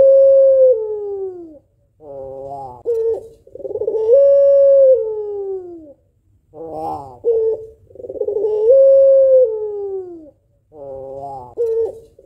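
White pelung puter, a female white domestic turtle dove, cooing over and over, about every four seconds. Each coo is a short stuttering start followed by one long drawn-out note that falls away at the end.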